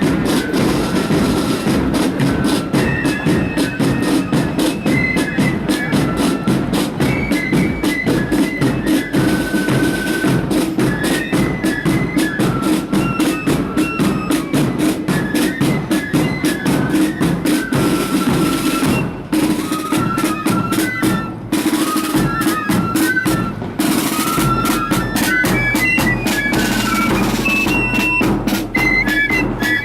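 Marching flute band playing a tune: a quick, ornamented flute melody over rapid snare-drum rolls and a steady bass drum.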